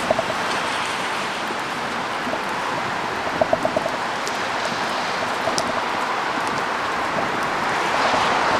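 Steady rain falling, with scattered drops ticking; it grows a little louder near the end.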